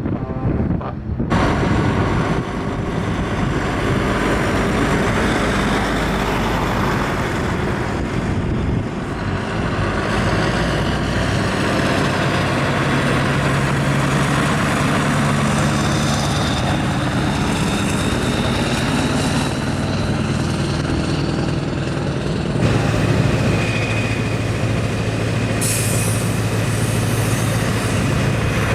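Heavy trucks' diesel engines running, steady and loud, with the sound changing abruptly a few times.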